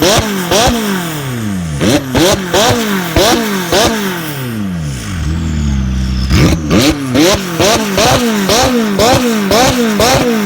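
Supercar engine revved in quick repeated throttle blips, each rising sharply in pitch and sagging back, about two or three a second. Near the middle it settles briefly to a steady idle, then the blips start again.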